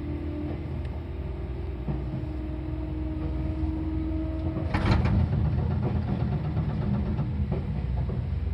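Seibu 4000 series electric train running on the rails: a steady rumble with a hum that stops a little past halfway, then a brief loud rattle and clatter about five seconds in, after which the rumble is louder.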